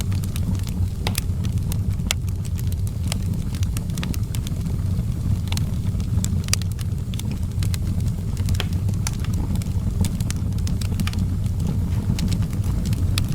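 Outdoor wood fire burning, with a steady low rumble of flames and irregular sharp crackles and pops of burning wood.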